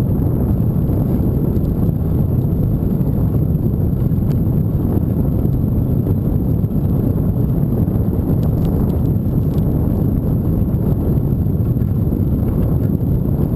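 Wind buffeting the microphone while riding a bike: a steady, loud, low rumble of rushing air with no clear pattern.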